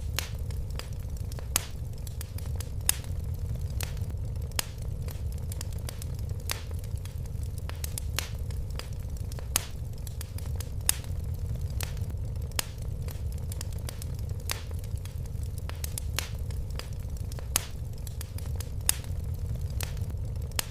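Wood fire crackling and popping in a fireplace: irregular sharp snaps, several a second with a few louder pops, over a steady low rumble of the flames.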